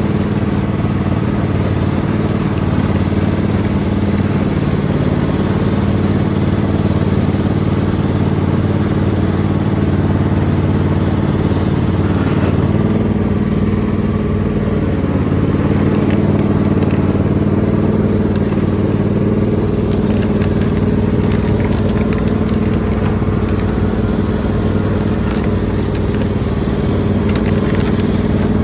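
Riding lawn mower engine running steadily at a constant speed, with a slight change in pitch about twelve seconds in.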